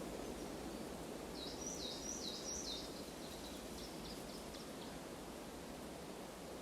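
Forest ambience: a steady rushing noise, with a songbird singing a short phrase of about five quick, repeated high notes a little over a second in, trailing off into a few fainter notes.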